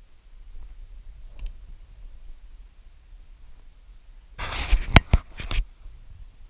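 Quiet background, then about four and a half seconds in a burst of rustling, about a second long, with several sharp clicks through it.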